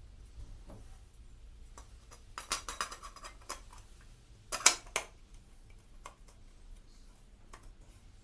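Metal pieces clinking and clattering as they are handled, with a cluster of light knocks a few seconds in and one louder sharp clank about halfway through.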